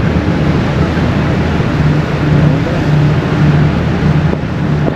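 Car ferry under way: the vessel's engines drone steadily under a loud, even rush of wind and water.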